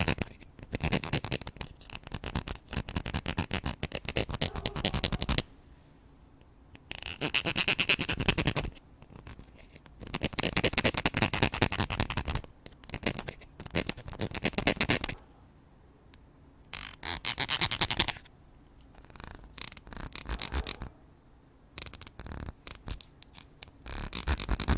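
Repeated bursts of scratching and brushing, each a dense run of rapid clicks lasting one to four seconds, about seven in all. A steady high cricket chirring carries on through the gaps between them.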